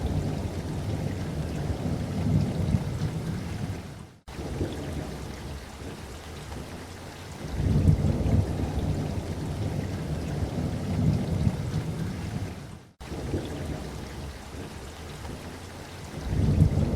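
Steady rain with thunder rumbling in long, low rolling swells, three times. The sound cuts out for an instant twice.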